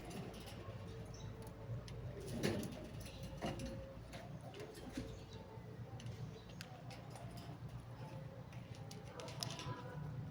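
Parrot making soft calls and scattered clicks over a steady low hum.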